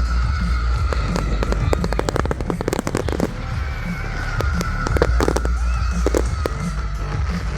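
Fireworks going off in quick, irregular succession, a dense run of sharp bangs and crackles over a low rumble, with music playing underneath.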